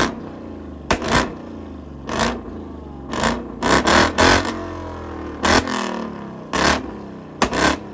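Aprilia RSV4 1100's starter cranking in a series of short stabs, about one a second, the hot V4 engine struggling to turn over and not catching. The owner puts this down to the starter sitting right next to the hot engine.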